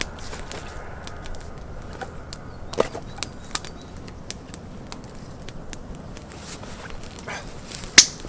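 Wood campfire crackling, with sharp, irregular pops; one pop near the end is the loudest.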